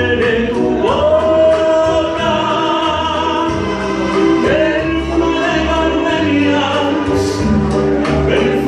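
A bolero song: a singer holds long notes that slide up into place, over a band with a repeating bass line and steady percussion ticks.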